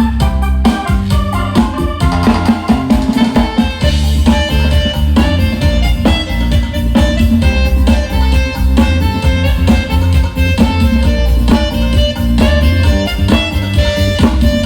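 Drum kit and electronic organ playing together in an instrumental duet: loud, with a busy, steady drumbeat over sustained keyboard chords and a heavy bass line.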